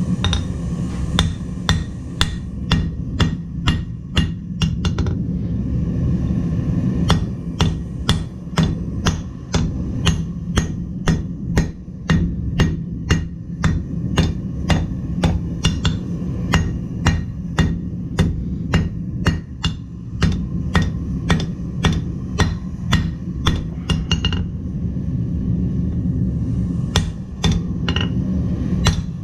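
Blacksmith's hammer striking steel on an anvil, about two blows a second, with short pauses about five seconds in and again near the end, over a steady low rumble.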